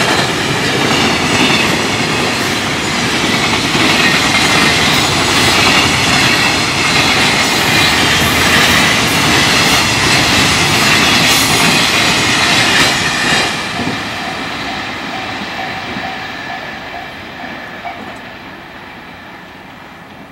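Container freight train passing at speed: the wagons' wheels clatter and rumble over the rail joints. About two-thirds of the way through, the noise starts to fade steadily as the last wagons pass and the train draws away.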